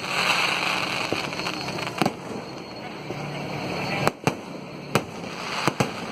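Firecrackers going off: a steady crackling hiss broken by about six sharp, loud bangs at irregular intervals, two of them in quick pairs.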